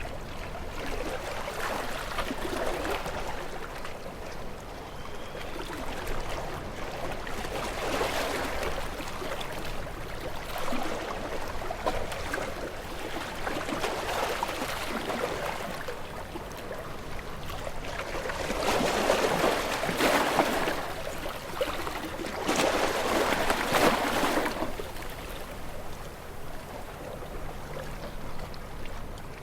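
Ocean waves breaking and washing onto shore, a steady hiss of water that swells and fades every few seconds; the two largest surges come about two-thirds of the way through.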